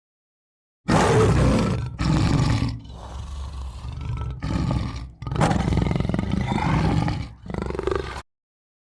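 Tiger roaring: a series of loud, rough roars and growls starting about a second in, with short breaks between them, a quieter growling stretch in the middle, and a sudden stop near the end.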